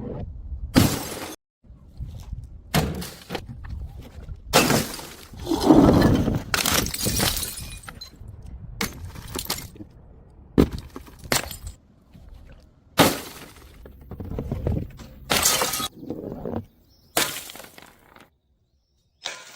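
Glass bottles smashing one after another, a series of separate sharp crashes of shattering glass with tinkling debris, some cut off abruptly.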